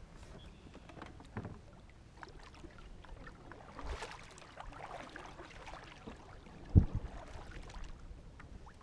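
Small-boat sounds on the water: light splashing and scattered small knocks, with one sharp thump a little before seven seconds in, louder than anything else.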